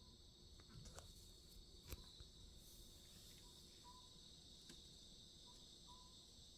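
Faint Oriental scops owl calls: short hoots near the same pitch, given twice as two-note pairs in the second half, over a steady chirring of crickets. A few faint clicks come early on.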